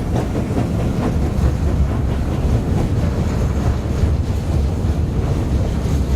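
A steam-hauled mining-railway train rolling past with a steady, loud low rumble of wheels and wagons.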